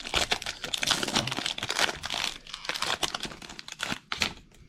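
Crinkling and tearing of a Magic: The Gathering collector booster's foil wrapper as the pack is ripped open, irregular crackles that thin out near the end.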